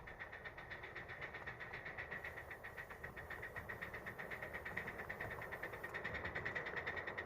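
Miniature live steam locomotive running, its exhaust beating at an even rhythm of several beats a second and growing slowly louder.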